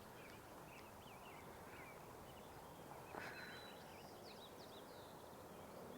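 Faint, scattered short high chirps from small songbirds over a low background hiss, with one soft click a little after three seconds.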